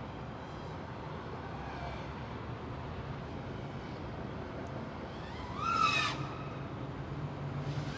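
FPV freestyle quadcopter motors whining at a distance, with one louder close pass about six seconds in where the pitch rises and then falls.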